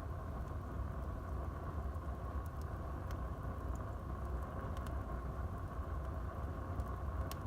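Wood fire burning in a fireplace: a steady low rush of the flames with a few sharp, scattered crackles and pops from the burning wood.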